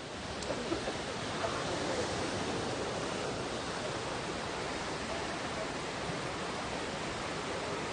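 Jeongbang Falls, a waterfall pouring into the sea, heard as a steady rush of falling water that swells during the first second and then holds even.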